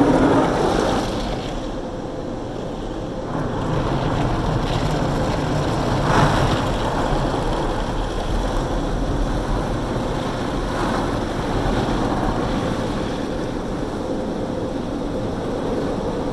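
Automatic car wash spraying water over a minivan, heard from inside the cabin: a loud, steady rush with a faint machine hum, swelling near the start and again about 6 and 11 seconds in.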